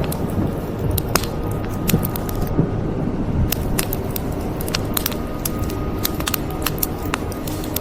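Wood fire crackling, with frequent irregular sharp pops, over a steady low bed of rain.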